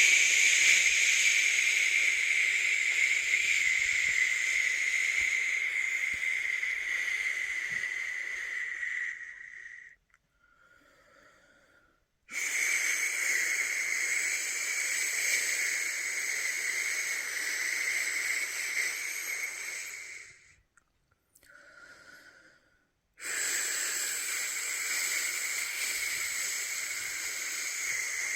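A man making long, steady 'shhh' shushing sounds with his mouth, the white-noise shush used to soothe a newborn to sleep. There are three long shushes of about eight to ten seconds each, separated by two brief pauses.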